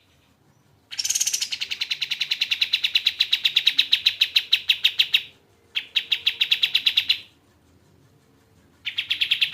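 Kapas tembak bird singing a fast, rattling trill of evenly repeated high notes, about ten a second, in three bursts: a long one of about four seconds, a short one of about a second and a half, and a third starting near the end.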